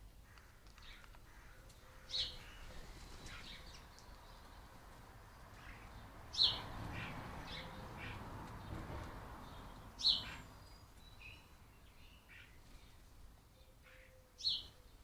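Garden birds calling: a short, sharp, high call comes about every four seconds, with fainter calls between. A low rumble swells and fades in the middle.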